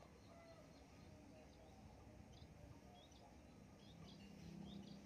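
Near silence, with faint, scattered short high chirps of small birds in the background.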